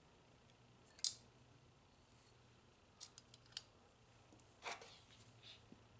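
Sparse sharp clicks and taps of small plastic and metal gearbox parts being handled: one crisp click about a second in, a quick run of clicks around three seconds in, and a short scrape near the end.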